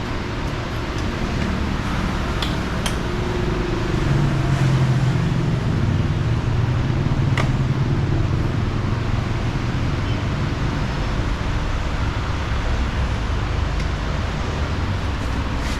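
Motorcycle engine running steadily under road and wind noise, its hum rising a little about four seconds in and then holding.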